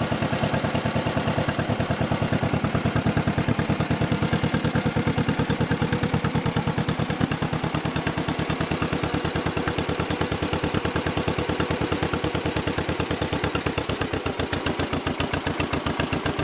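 1955 John Deere 40S two-cylinder engine running throttled back, with a steady, even, rapid popping beat. The engine is holding the tractor's speed as it rolls downhill.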